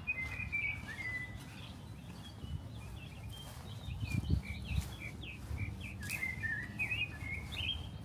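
A songbird chirping in quick runs of short, high notes, with brief pauses between runs.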